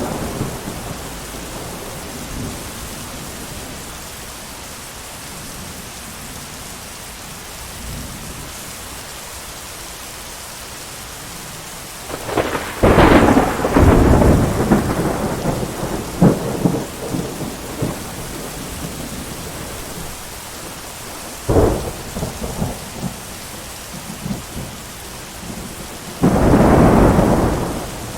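Steady rain with thunder: a sharp crack about halfway through that rolls on for a couple of seconds, a short clap a while later, and a long rumble near the end.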